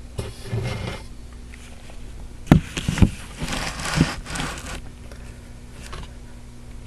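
Handling noise: rustling with a few sharp clicks and knocks, two of them close together about halfway through, over a faint steady hum.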